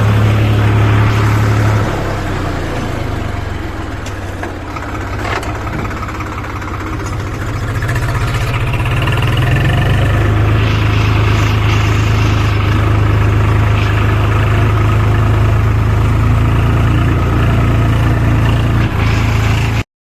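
Heavy diesel engine running at a steady low throttle on an earth-loading site; its note drops off about two seconds in and builds back up from about eight seconds. The sound cuts off abruptly near the end.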